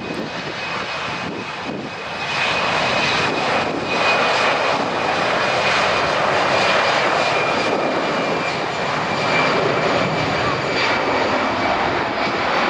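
Jet airliner engines running loud: a dense rushing noise with a steady high whine on top, growing louder about two seconds in and then holding steady.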